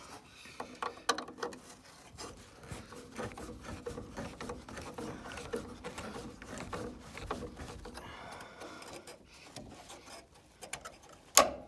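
Hands working with tools and small metal parts in a car's dashboard: irregular clicks, scrapes and rattles over a faint steady hum through the middle, with one sharp click near the end.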